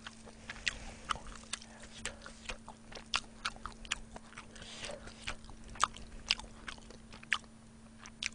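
Close-miked chewing: irregular wet clicks and smacks of a mouth eating a piece of saucy pork rib with cheese and corn.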